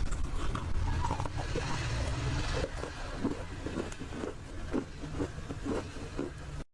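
Close-miked chewing of roasted Nakumatt clay: a dense crunch for the first two or three seconds, then a run of short, separate mouth sounds. The sound cuts off abruptly near the end.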